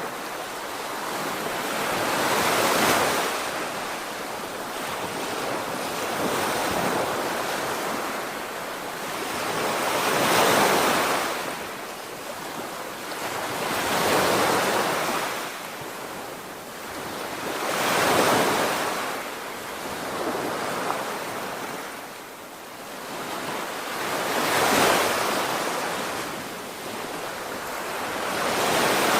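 Sea waves breaking and washing on the shore, each surge rising and falling about every four seconds, with wind rumbling on the microphone.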